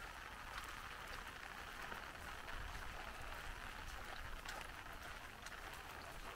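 Light rain falling: a steady soft hiss with scattered faint ticks of drops.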